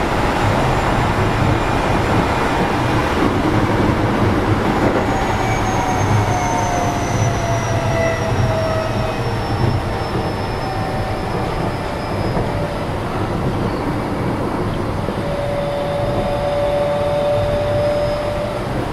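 Running sound heard inside a Keio 7000 series electric train car: a steady rumble of wheels on rail, with faint whining tones that slide slowly down in pitch as the train slows, and a steady whine near the end.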